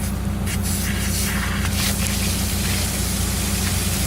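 High-pressure water rushing from a water main: a steady hiss, heavier from about half a second in, over a continuous low rumble.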